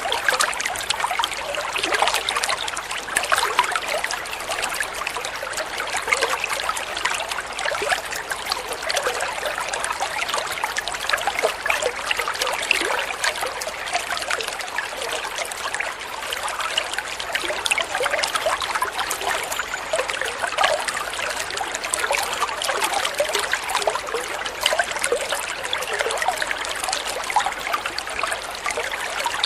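Water flowing and trickling steadily: a continuous burble made of many small splashes, with no pauses.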